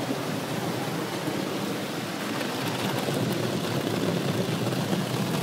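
Automatic car wash air dryer blowers blasting air over the car in a steady rush, heard from inside the car during the drying cycle.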